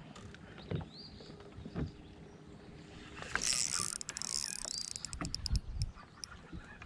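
Water splashing and sloshing with scattered light knocks, as around a small boat; the splashing picks up about three seconds in and lasts a few seconds.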